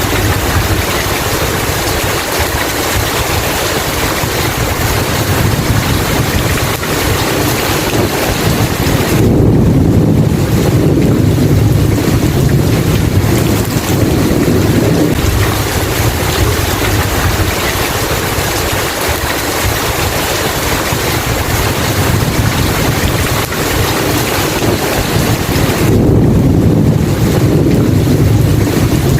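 Steady heavy rain with rolling thunder, a deep rumble swelling about nine seconds in and again near the end.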